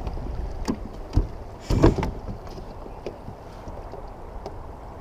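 Knocks and bumps against a plastic fishing kayak's hull as a caught bass is handled aboard, the loudest just under two seconds in, over a low rumble of wind and water.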